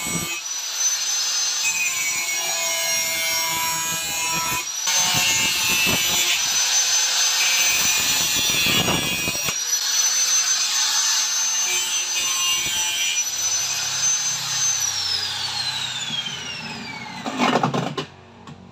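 Electric grinder running with a steady high whine while a blunted bolo blade is ground against it in rough, rasping passes: the blade being sharpened. Near the end the motor is switched off and its whine falls away as it spins down, followed by a short knock.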